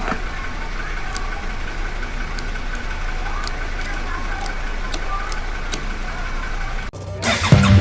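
Steady motor-vehicle rumble that cuts off abruptly about seven seconds in, when music begins.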